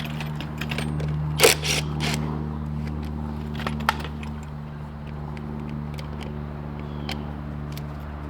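Sharp metallic clinks and a short clatter of tools and parts being handled on a motorcycle, loudest about a second and a half in, with another click near four seconds. A steady low hum runs underneath.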